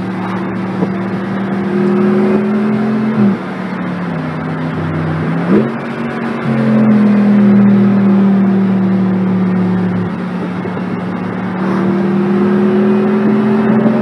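Car engine running hard at high revs, a steady drone that slowly climbs in pitch. The pitch dips sharply about three seconds in and climbs back a couple of seconds later, as at a gear change.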